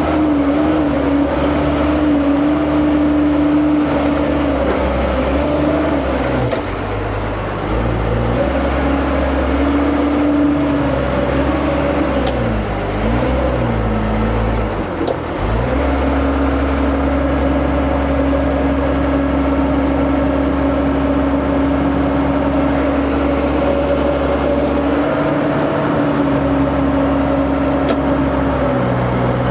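Heavy diesel earthmoving machine running under load with a steady whine. Its pitch sags and wavers for several seconds in the middle, then settles steady again.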